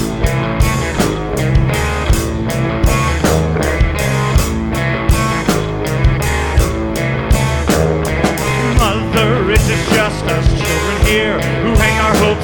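Rock band playing an instrumental passage: a steady drum beat under electric guitar and bass. A wavering lead line comes in about eight seconds in.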